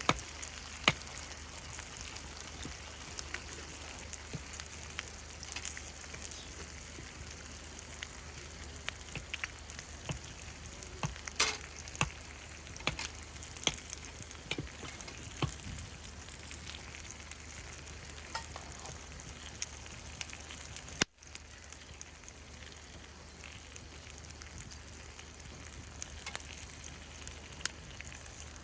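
Food sizzling in a frying pan, a steady hiss with scattered sharp pops and crackles, broken off for an instant about 21 seconds in.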